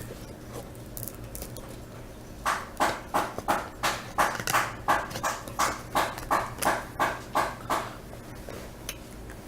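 A run of evenly spaced sharp knocks or taps, about three a second, starting a couple of seconds in and stopping after about five seconds.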